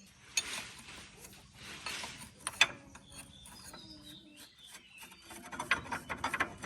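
Handling noises of tools and metal parts: two short rasping scrapes, then scattered clicks, with a quick run of clicks and taps near the end.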